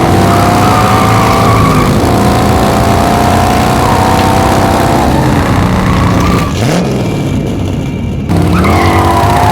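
Racing-car engine sound effect accelerating hard, its pitch climbing and levelling off again and again as if shifting through gears. It thins out for a couple of seconds past the middle, then starts a new rise near the end.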